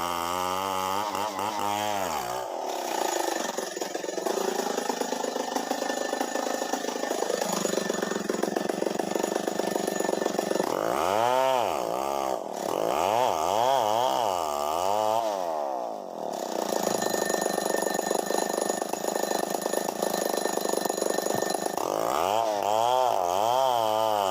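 Chainsaw running throughout, its engine speed swinging up and down again and again as it revs and works through the cut, with a few brief dips in level.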